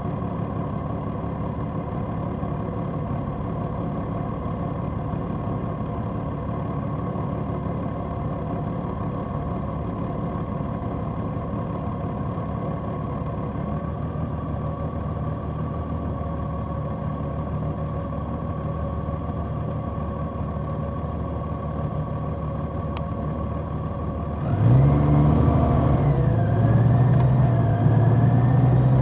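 Large motorcycle's engine idling at a steady pitch. Near the end it gets suddenly louder and revs, its pitch rising and falling.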